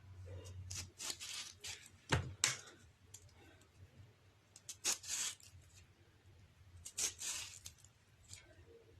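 Kitchen knife cutting into whole lemons, with four short slicing strokes and a couple of sharp taps, as each lemon is cut into quarters that stay joined at the base for preserving in salt.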